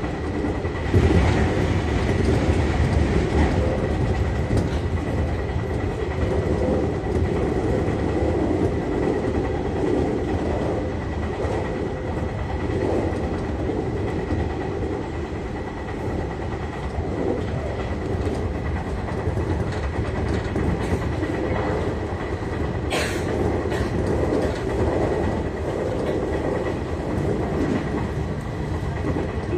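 813 series electric train running along the line, heard from inside at the front of the car: a steady rumble of wheels on rails with a faint, steady high whine. A single sharp click sounds about three-quarters of the way through.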